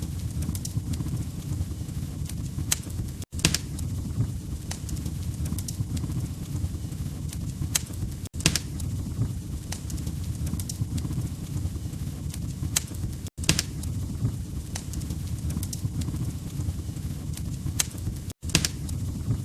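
Wood fire crackling: a steady low rumble of flames with frequent sharp crackles and pops. The sound cuts out for an instant about every five seconds, where the loop joins.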